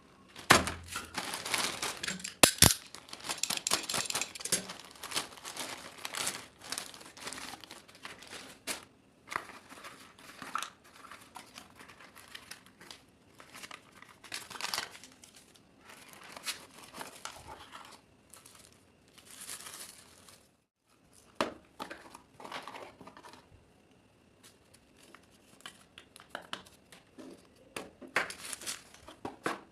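Crinkling and rustling of material being handled, in irregular bursts, with a sharp knock a few seconds in.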